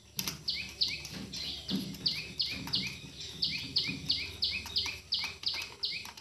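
A small bird chirping over and over in quick, even short chirps, about three a second.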